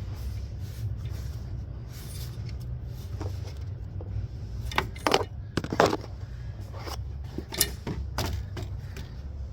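Hand tools working on the alternator mounting bolts: a few sharp metallic clicks and knocks, the loudest about five and six seconds in, over a steady low hum.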